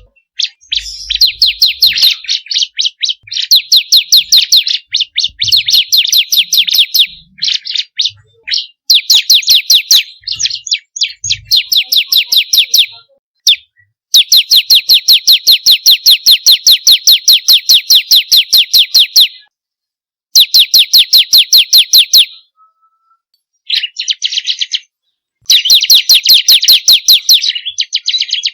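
Bar-winged prinia (ciblek) singing: rapid runs of sharp, evenly repeated high notes, several a second, in bursts of a few seconds separated by short pauses, with the longest run lasting about five seconds midway.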